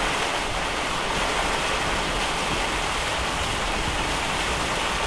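Heavy wind-driven rain beating on a stopped vehicle in a severe thunderstorm's downdraft: a steady, dense hiss with no let-up.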